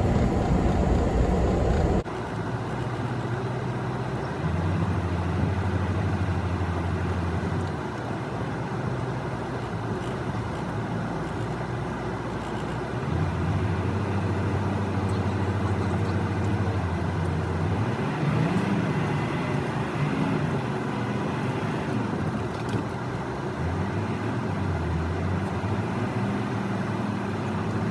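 Semi-truck engine running, its low pitch stepping and gliding up and down several times as the engine speed changes.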